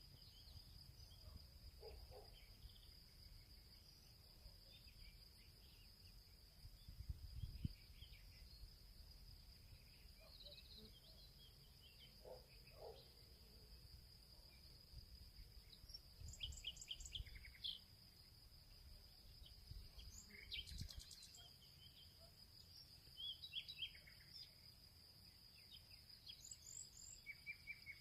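Faint field ambience: a steady high insect trill with scattered songbird chirps and calls over it, and a low rumble that swells briefly twice.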